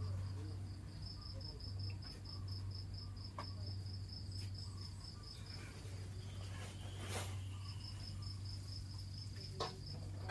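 An insect chirping in a steady high pulsed trill, about four or five pulses a second, breaking off briefly past the middle and then resuming, over a constant low hum, with a few light knocks and clicks.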